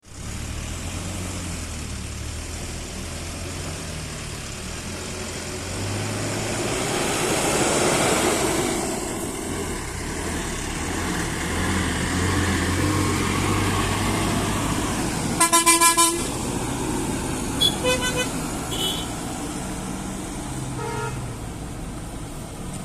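Truck engine running steadily through a hairpin bend on a mountain road, with road noise swelling and fading about a third of the way in. About two-thirds of the way through, a loud vehicle horn sounds in four or five quick pulses, followed by a few shorter toots and a fainter one near the end.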